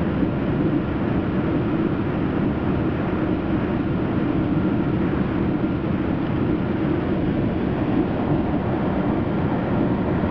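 Northstar commuter train heard from inside the passenger car: a steady low rumble with no breaks or distinct events.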